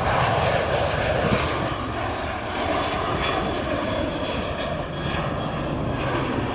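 Boeing 737-700's CFM56-7B turbofan engines at takeoff power: a steady jet roar with a faint high whine in the middle.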